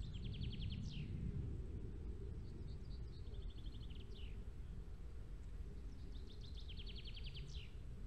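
A songbird sings the same short song three times, each a rapid run of repeated high notes ending in a quick downward flourish, over a steady low outdoor rumble.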